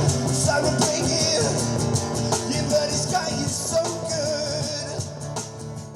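Acoustic rock band playing live, getting steadily quieter toward the end.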